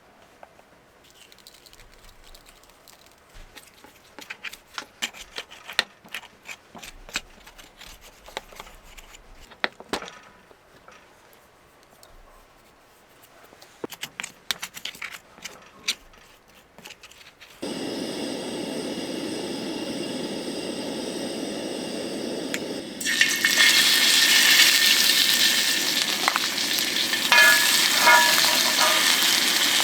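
Light clicks and knocks of cooking preparation, then a steady hiss begins a little past halfway, and near the end it turns into loud sizzling of food frying in a hot pan.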